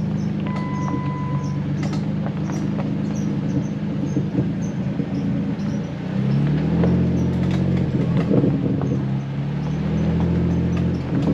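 Jeep Wrangler driving on a rough gravel trail: the engine runs steadily, with many rattles and knocks from the rig and the stones. The engine pitch shifts about six seconds in and again near the end. A short beep sounds about half a second in.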